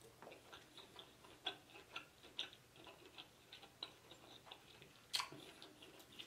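Faint, irregular wet mouth clicks and smacks of a person chewing a mouthful of seafood boil with the mouth closed, with a louder smack about five seconds in.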